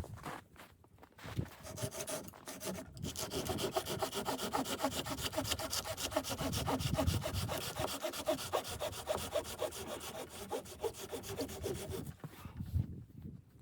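A saw cutting through wood with a steady rasping run of strokes that starts a few seconds in and stops near the end.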